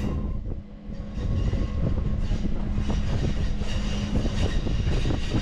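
Train running on rails: a steady low rumble with faint clicking from the wheels, and a steady hum that stops about four seconds in. The sound briefly drops away just under a second in, then returns.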